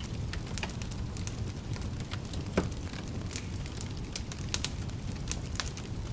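Wood fire crackling in a fireplace: irregular snaps and pops over a steady low rumble of flames, with one louder pop about two and a half seconds in.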